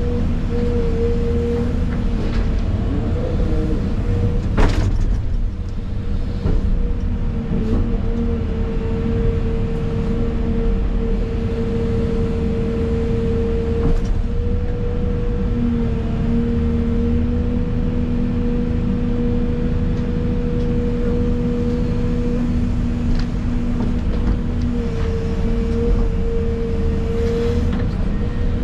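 Excavator running under work, heard from inside the cab: a steady low engine rumble with a steady whine over it and occasional clanks, one sharp clank about five seconds in.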